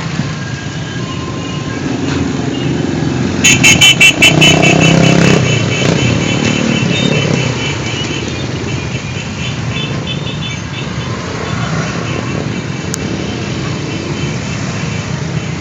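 Motorcycles passing in a steady stream, their engines running. About three and a half seconds in, a horn sounds in a rapid string of short beeps for nearly two seconds, the loudest sound here.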